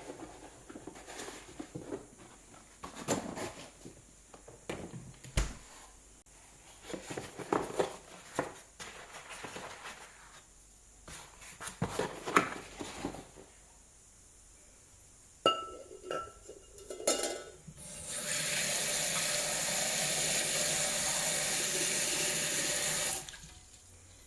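Kitchen work with light knocks and clatter of dishes and utensils, then a kitchen tap running into the sink for about five seconds before it is shut off.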